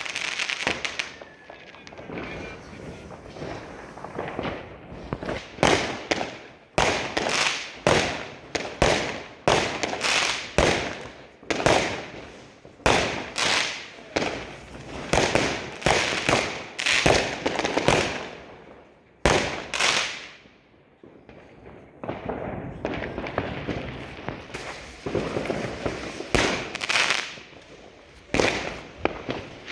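New Year's Eve fireworks and firecrackers going off in quick succession: a dense run of sharp bangs and crackles, each with a short ringing tail. They ease off to a brief lull about two-thirds of the way through, then pick up again.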